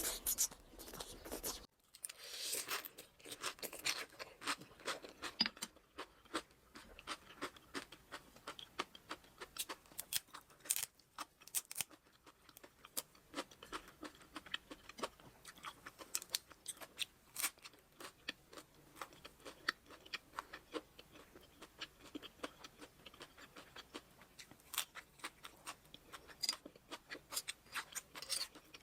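Close-miked eating sounds: many small crisp crunches and clicks in quick, irregular succession.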